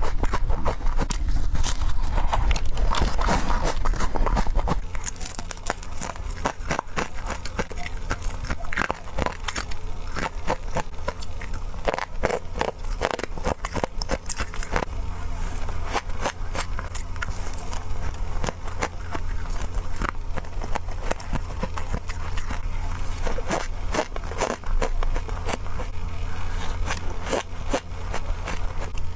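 Freezer frost crunching in rapid, close bites, with dense crackling and scraping and a steady low hum underneath.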